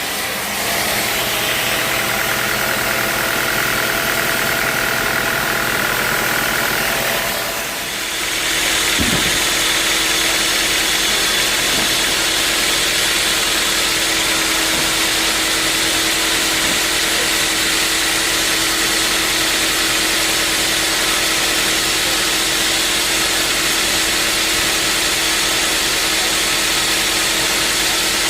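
A sawmill's engine running steadily. It dips briefly about eight seconds in, then settles into an even, steady running sound.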